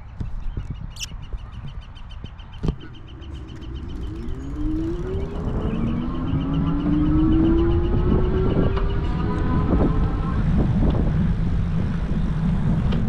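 Fat-tire e-bike on the move: wind and tyre rumble on the microphone, with a fast light ticking through the first half. From about four seconds in, a motor whine rises in pitch as the bike picks up speed, then holds steady.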